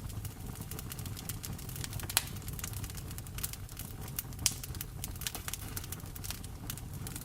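Wood fire in a fireplace crackling, with many small irregular pops and two louder pops about two seconds and four and a half seconds in, over a steady low rumble.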